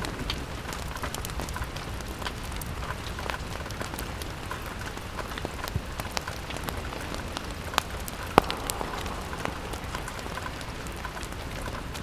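Steady rain on window glass, with scattered sharp ticks of individual drops over an even hiss.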